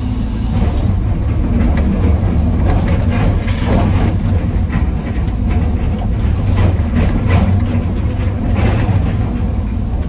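Heavy diesel machinery running steadily with a low drone, under many sharp clanks and rattles of andesite rock knocking against steel as the excavator loads a dump truck.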